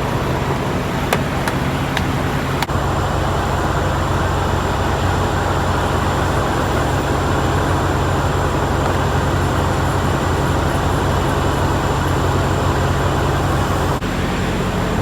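Semi truck's diesel engine running as the truck pulls slowly forward, heard from inside the cab, with a few light clicks in the first few seconds. The engine note changes near the end.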